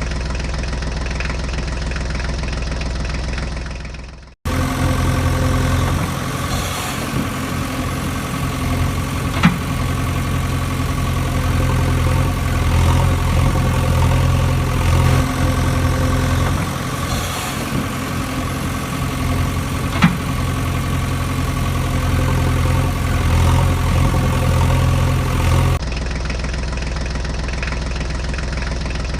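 Engine idling steadily with a low, even hum. It fades away and then abruptly cuts back in just after four seconds, and there are two short sharp clicks, about ten seconds apart.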